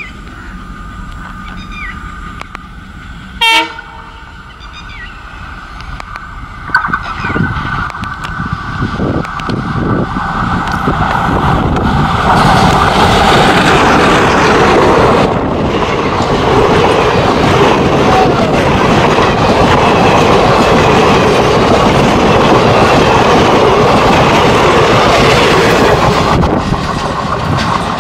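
Indian diesel locomotive hauling a passenger train as it approaches and passes close: a short horn blast a few seconds in and another sharp blast soon after. The engine and the wheels clattering over the rails then build to a loud, steady din for most of the second half as the coaches go by.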